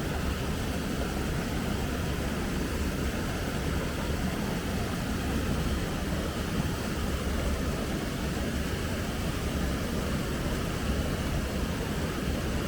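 Steady rushing of a flowing river, an even noise with most of its weight low down and nothing standing out from it.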